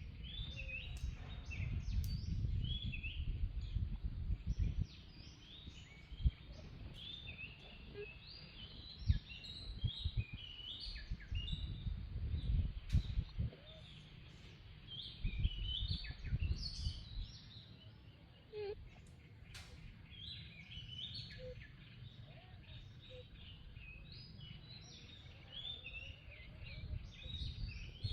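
Many small birds chirping, with short rising and falling calls overlapping throughout, over an uneven low rumble.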